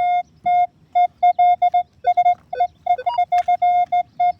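Metal detector's audio tone beeping on and off as the search coil is swept over a buried target: a steady mid-pitched electronic tone in short beeps of varying length, about three a second, dipping lower and jumping higher briefly once or twice. The tone runs long, the sign of a large target, which the detectorist takes for a big piece of aluminium.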